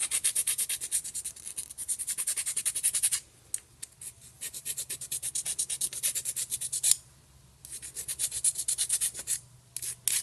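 A fine hand file rasping on plastic in quick short strokes, about seven a second, in three runs with brief pauses. It is smoothing off excess build-up around the top of a plastic pin.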